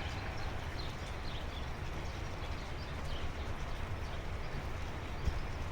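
Steady rain with wind rumbling on the microphone, and scattered faint, short high chirps.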